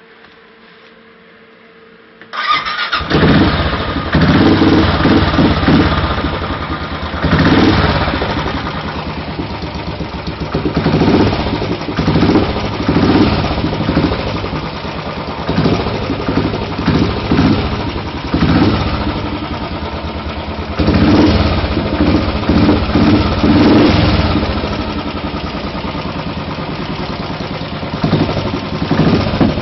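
Royal Enfield 500's single-cylinder engine starting through an MG-Race aftermarket exhaust: it catches suddenly about two seconds in, then keeps running with repeated short blips of the throttle.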